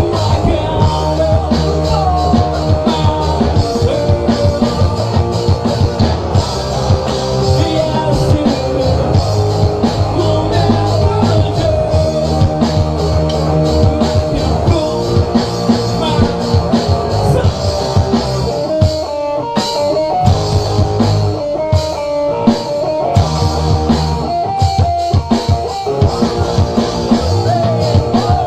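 A rock band playing live: drum kit, electric guitars and bass. About two-thirds of the way through, the low end drops out for a few short breaks punctuated by accented hits, then the full band comes back in.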